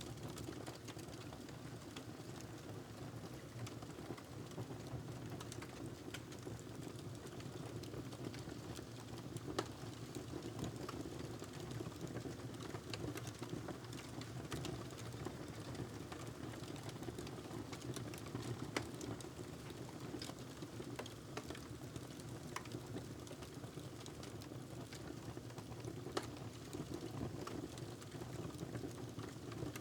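Fireplace fire burning: a steady low rumble of flames with scattered small crackles and a few louder pops.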